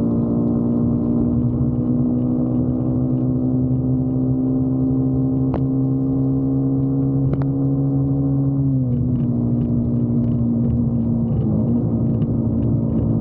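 Motorcycle engine running at a steady speed on the open road, dropping a little in pitch about nine seconds in as the throttle eases or the rider shifts gear. Two brief clicks come in the middle.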